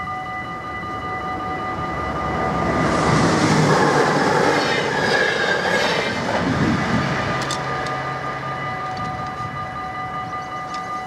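A regional NS passenger train passing over a level crossing: its running noise builds from about two seconds in, is loudest between about three and seven seconds, then fades. Throughout, the crossing's warning bells ring as a steady tone.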